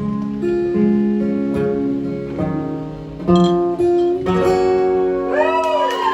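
Acoustic guitar playing the closing bars of a song, its chords ringing out one after another. Near the end a voice cries out over it with a rising-and-falling whoop.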